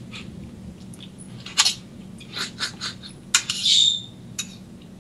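Close-up eating sounds: a run of wet mouth clicks and lip smacks from chewing. The smacks bunch about a second and a half in and again from two and a half to four and a half seconds in.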